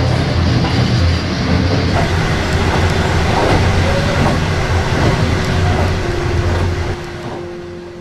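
Steady running noise of a passenger train heard from inside the carriage, a dense low rumble of wheels on track and the moving car body. It fades away over the last second or so.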